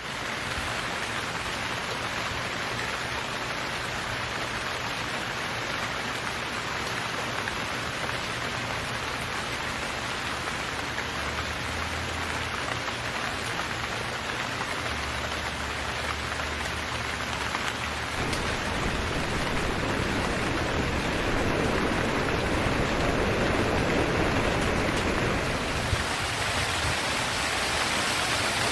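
Heavy rain falling steadily, a dense continuous hiss of drops on surfaces, getting somewhat louder and fuller from about two-thirds of the way through.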